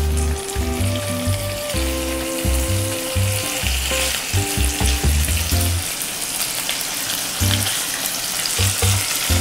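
Slices of luncheon meat sizzling in hot oil in a non-stick frying pan as they pan-fry, a steady crackling hiss. Background music with held notes and a bass line plays under it, thinning out about six seconds in.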